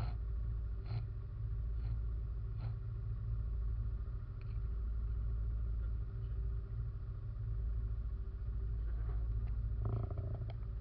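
RM 500 ATV engine running steadily, a low drone heard from a camera mounted on the machine, with a few short knocks and rattles, the loudest cluster near the end.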